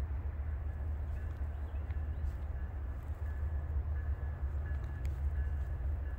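Low, steady rumble of an approaching freight train's diesel locomotives, still some distance down the line.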